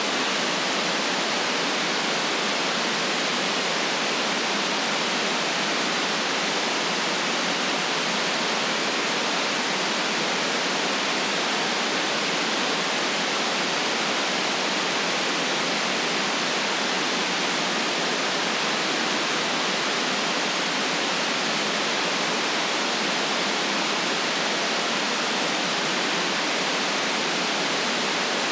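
Steady white noise: an even, unchanging hiss with no deep rumble, holding the same level throughout.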